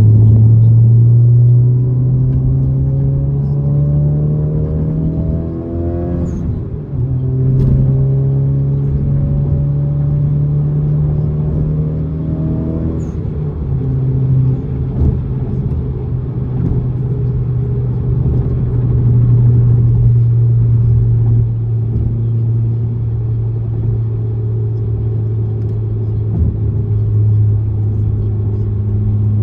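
Honda Civic Type R FL5's turbocharged 2.0-litre K20C four-cylinder accelerating. The engine note climbs, drops about six seconds in, climbs again and drops about thirteen seconds in, then runs steadily. Short sharp vents at the throttle lifts are the HKS SQV blow-off valve's 'fart' sound.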